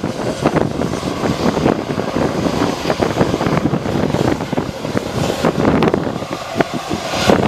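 Jet aircraft engine noise, steady throughout, mixed with heavy wind buffeting on the microphone.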